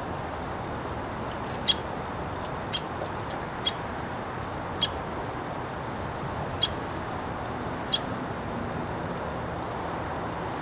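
Female downy woodpecker giving six sharp, short 'pik' calls, irregularly spaced about a second apart, with the last one near the end.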